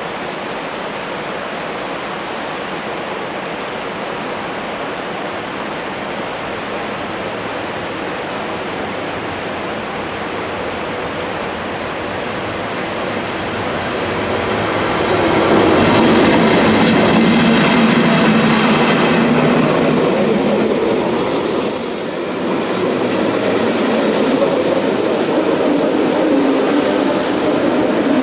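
Electric mountain-railway train approaching and passing close by on a curve. A steady rushing noise swells about halfway in as the locomotive arrives, and a high steady wheel squeal rings out a few seconds later as the coach and loaded freight wagons roll past.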